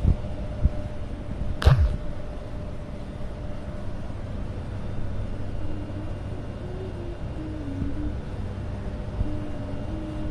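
Sandstorm wind rumbling steadily against the microphone, with one sharp knock about a second and a half in.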